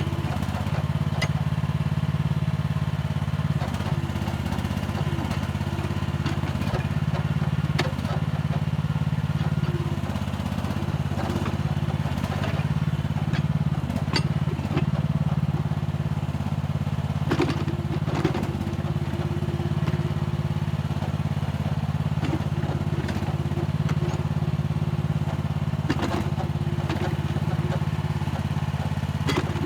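Mini excavator engine running steadily under working load, its level swelling and easing every few seconds as the machine digs. Scattered clanks and scrapes come from the bucket and tracks working the soil.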